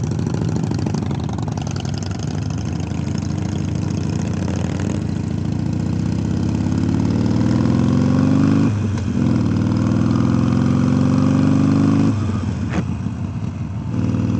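Harley-Davidson Iron 883 Sportster's air-cooled V-twin engine accelerating under way. Its pitch rises, drops sharply at a gear change about 9 seconds in, rises again, and drops at a second shift about 12 seconds in.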